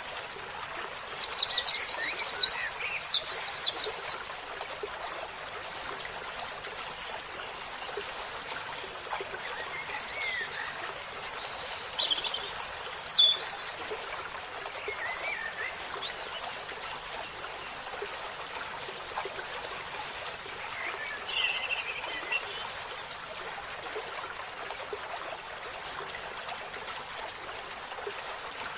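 Steady trickling stream with songbirds calling over it: a rapid twittering phrase near the start, scattered chirps and calls around the middle, and another twittering phrase about three quarters of the way through.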